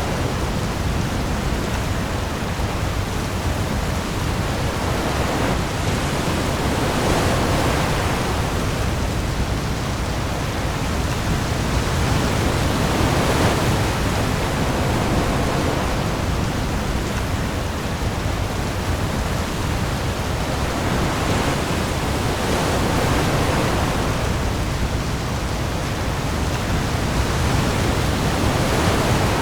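Heavy rain falling on the sea with waves: a dense, steady hiss with a deep low rumble beneath, swelling gently every five or six seconds.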